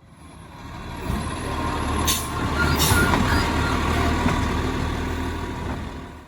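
Peterbilt 520 garbage truck's diesel engine running with a steady low hum, fading in at the start, with two short hisses of air about two seconds in.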